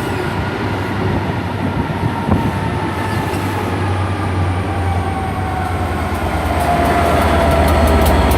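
Passenger train pulling out, its Class 67 diesel locomotive on the rear running under power: a steady low engine drone grows louder as the locomotive comes nearer, and a tone slides down in pitch. Near the end, wheel clicks over the rail joints join in.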